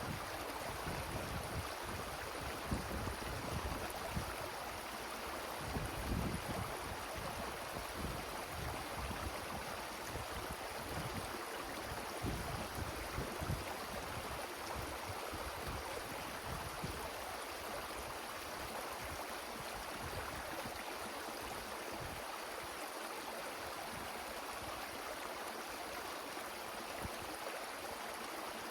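Wind rushing through forest trees as a steady rushing hiss, with gusts buffeting the microphone in low thumps during the first half that die away later.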